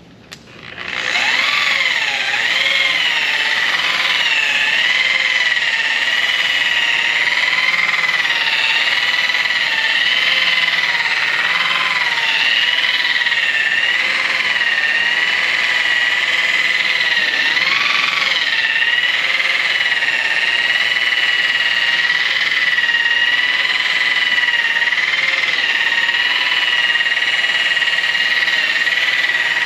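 Electric rotary polisher switched on with a click and spinning up, then running steadily with a high whine while polishing aluminum brightwork. Its pitch wavers and dips now and then as the pad is pressed against the metal.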